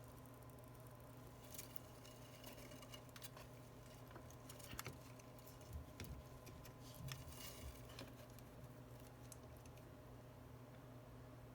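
Near silence over a steady low hum, with faint scattered clicks and small handling noises from tools and parts being handled on a workbench.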